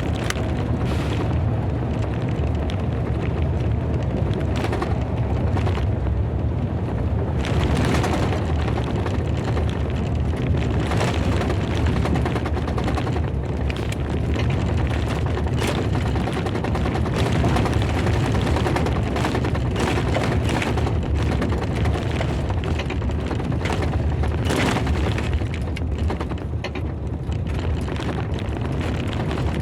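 Heavy storm rain drumming hard and steadily, a dense patter of hits over a deep continuous rumble.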